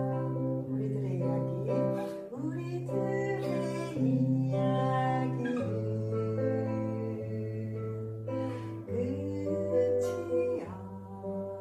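Music: an acoustic guitar playing with singing over sustained low notes.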